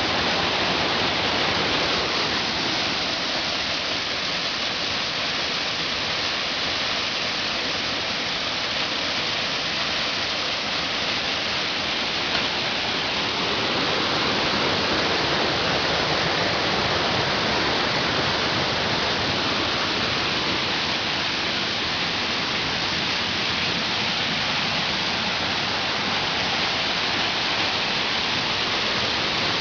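Waterfall: water pouring down steadily with an even, unbroken rushing.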